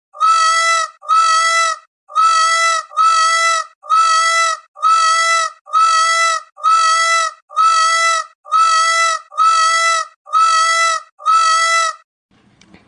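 An animal call, a short steady-pitched cry, repeated thirteen times at an even pace, each copy exactly alike like a looped sound effect, then it stops.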